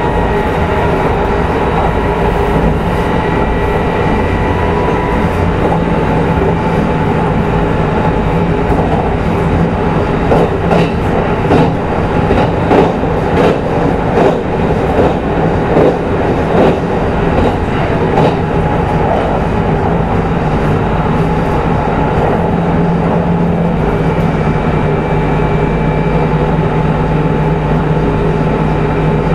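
Kintetsu 22000-series limited express running at speed, heard in motor car Mo 22117: a steady hum from the traction motors and gears over wheel-on-rail rumble. Through the middle stretch the wheels click over rail joints.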